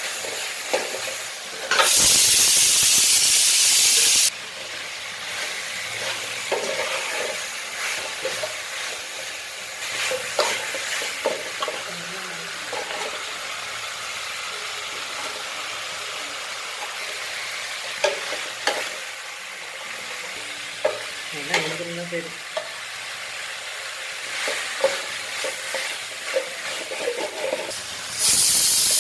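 Chicken curry frying and sizzling in a pan while a spatula stirs it, with scattered knocks and scrapes of the utensil against the pan. A loud hissing burst comes about two seconds in and lasts about two seconds, and starts again near the end.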